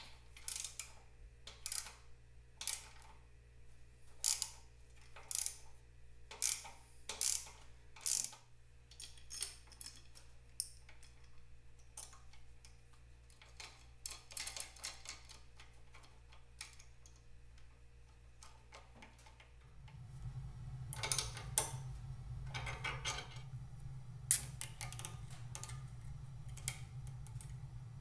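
A ratchet clicking in spaced strokes, about one a second at first and then more sparsely, as the Vincent girdraulic front spring box is drawn up under tension for removal. A steady low hum comes in about two thirds of the way through, with more clicks over it.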